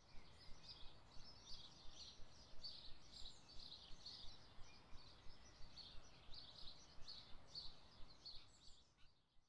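Faint birdsong: small birds chirping in quick, repeated high notes, two or three a second, over a low steady outdoor rumble.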